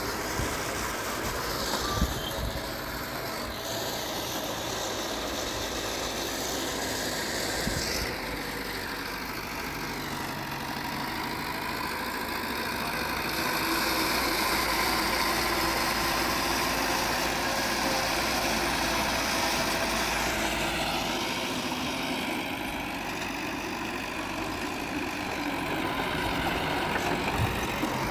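Heavy earthmoving machinery working, its diesel engine running steadily and growing louder for a while in the middle, with a sharp knock about two seconds in and a few lighter knocks.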